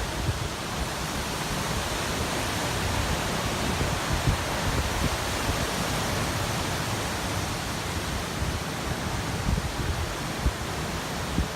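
Typhoon winds blowing in a steady rush, with low gusts buffeting the microphone, the strongest about ten seconds in.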